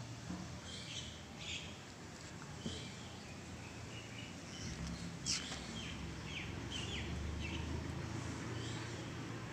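Small birds chirping in short, scattered high calls, with a few quick downward-sliding notes and one sharp click about halfway through, over a faint low background rumble.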